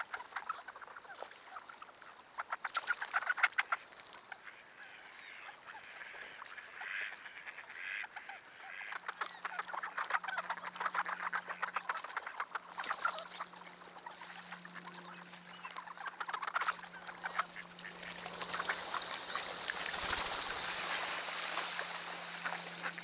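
A large flock of ducks, mallards among them, quacking and calling in a dense overlapping chorus that never lets up, thickest toward the end.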